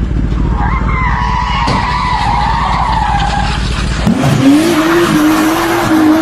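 Car tyres squealing in a skid: a wavering high squeal over a steady low rumble for about three seconds. About four seconds in the sound changes to a lower tone that rises in and holds.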